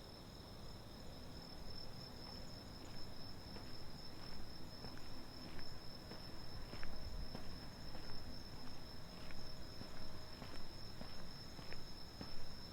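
Crickets trilling steadily in a high, unbroken band, with the walker's footsteps on pavement ticking evenly underneath, starting about a second in.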